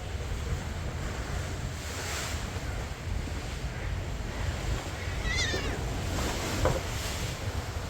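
Sea waves washing and wind buffeting the microphone, with a short, high, wavering cat meow about five seconds in and a fainter call soon after.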